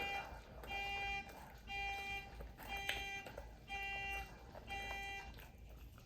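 An electronic alarm beeping in a steady rhythm, about one half-second beep a second, then stopping about five seconds in.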